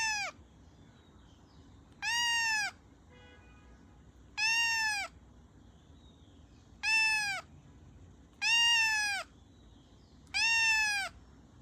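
A domestic cat meowing over and over: six drawn-out meows spaced about two seconds apart, each one rising and then falling in pitch.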